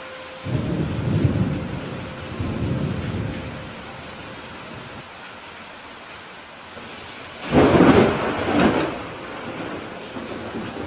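Steady rain with thunder: a low rolling rumble in the first few seconds, then a loud, sharp thunderclap about seven and a half seconds in that rolls on for a second or so.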